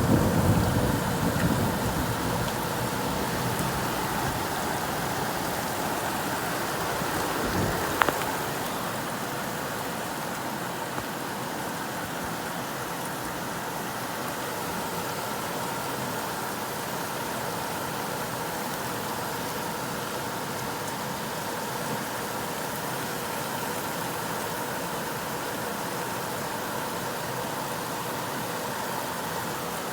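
Steady rain falling during a thunderstorm, with a low rumble of thunder in the first couple of seconds and one sharp crack about eight seconds in.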